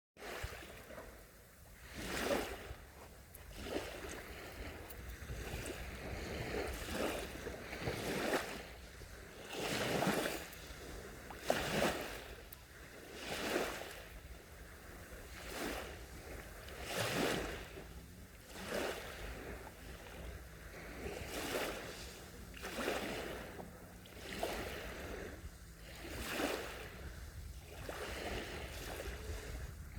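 Small sea waves breaking and lapping on the shore, a fresh wash every one to two seconds over a low steady rumble.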